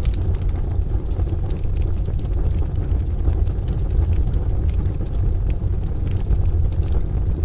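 Wood fire crackling, with scattered sharp pops and snaps over a steady low rumble of a rain and thunder ambience.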